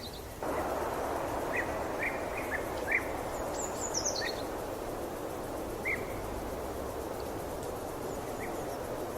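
Birds chirping: scattered short chirps and a quick run of high descending notes about four seconds in, over a steady background hiss.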